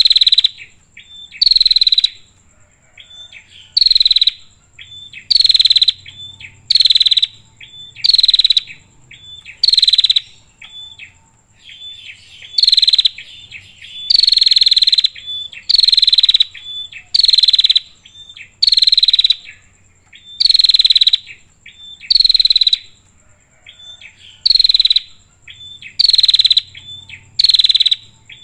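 Female prinia (prenjak) calling repeatedly: a loud, short, downward-sweeping call about every second and a half, with softer short notes in between.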